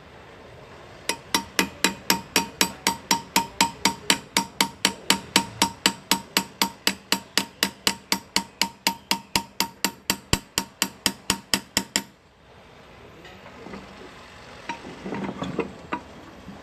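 Hand engraver's small hammer tapping a graver chisel into metal, a steady run of ringing taps at about four a second that stops abruptly, followed by a few softer knocks.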